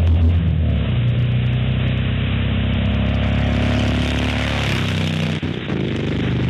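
Motorcycle engines running and revving, their pitch rising and falling a few seconds in, with a brief dip near the end.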